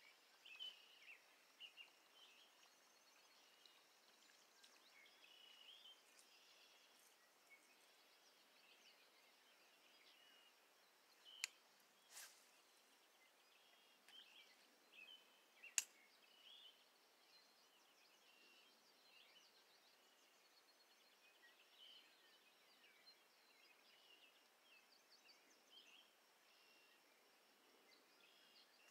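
Near silence outdoors: faint, scattered bird chirps throughout, with a few sharp clicks around the middle.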